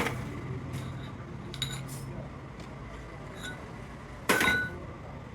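Metal tools and parts clinking in a workshop, a few light clinks and then one loud ringing metal clank about four seconds in, over a steady low hum.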